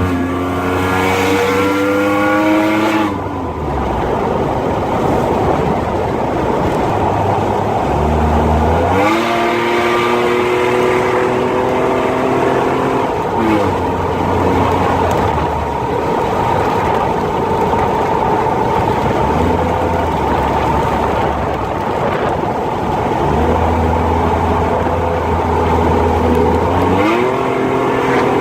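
2010 Jeep Wrangler's 3.8-litre V6 with long-tube headers and 2.5-inch exhaust pipe, being driven. The engine note climbs in pitch as it accelerates, about a third of the way in and again near the end, with steadier cruising stretches and road noise between.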